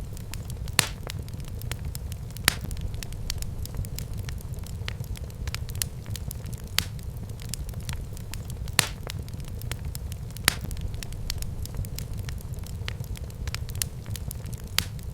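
Wood fire burning in a fireplace, a steady low rumble under frequent small crackles, with several sharper pops every couple of seconds.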